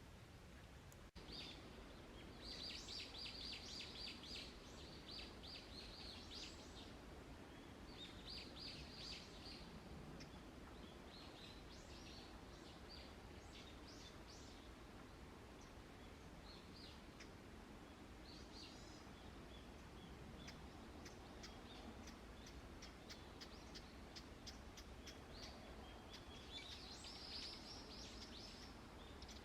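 Wild songbirds chirping in quick, high-pitched runs of notes that come in several bouts, faint over a steady background hiss.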